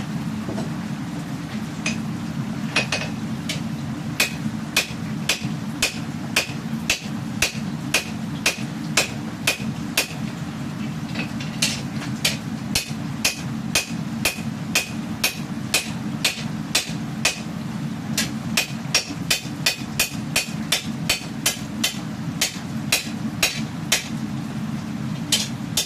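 Hammer blows on steel being forged for a katana blade. The strikes are sharp and ringing and come at a steady beat of about two a second, with a short break partway through and a quicker run later on. A steady low rumble runs underneath.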